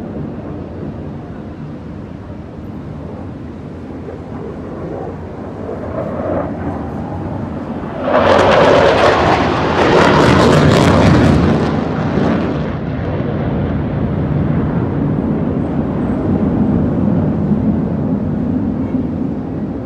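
Aircraft flying past at an airshow: a rumble builds, then turns suddenly loud and harsh for about four seconds as it passes, and falls back to a lower rumble.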